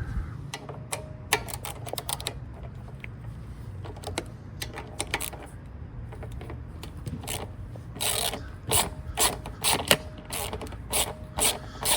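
Hand ratchet wrench clicking as a 10 mm carburetor mounting nut is turned by hand. A few scattered clicks at first, then a steadier run of ratchet strokes, about two a second, starting about two-thirds of the way in.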